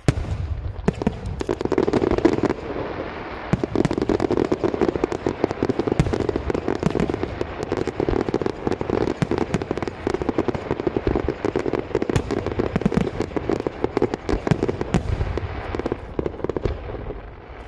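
Fireworks display: a dense barrage of aerial shell bursts and ground-level fountains firing together, a continuous run of rapid, overlapping sharp reports. It starts suddenly and dies away near the end.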